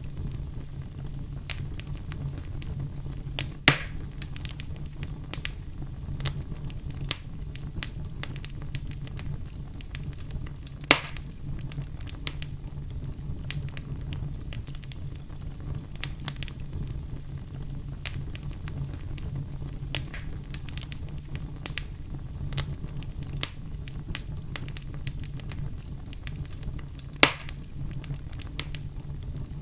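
Wood fire in a fireplace crackling, with many small crackles over a steady low rumble. Three loud pops stand out, near 4 s, near 11 s and near the end.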